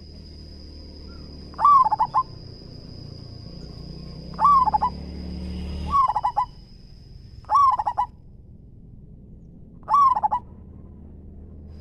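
Zebra dove cooing: five loud calls every two to three seconds, each a swooping note followed by a quick stutter of short notes. A thin steady high whine runs behind until about eight seconds in, and a low rumble swells and stops suddenly about six seconds in.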